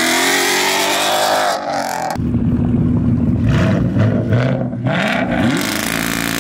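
Whipple-supercharged Chevrolet Camaro SS V8 revving, then launching hard about two seconds in. The engine note turns deeper and climbs in pitch, then drops back, as the car pulls away under full throttle.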